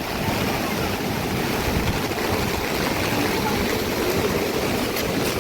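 Steady rushing noise, with a low, fluctuating rumble of wind buffeting the microphone.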